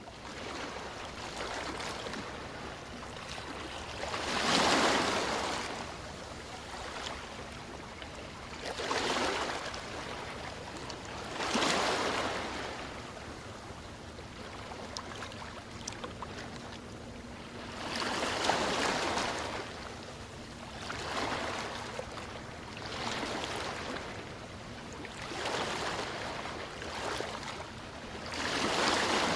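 Sea waves washing in, a soft steady rush that swells into a louder surge every few seconds.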